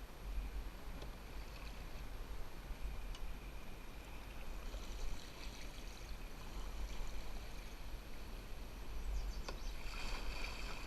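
River water running steadily around a canoe, with patches of light splashing about halfway through and near the end.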